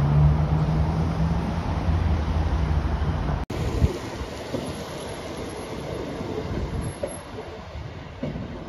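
Two-car diesel passenger train passing overhead on a railway bridge, its engine droning low and steady. About three and a half seconds in the sound breaks off and gives way to a quieter train rolling along an embankment, with a few wheel clicks.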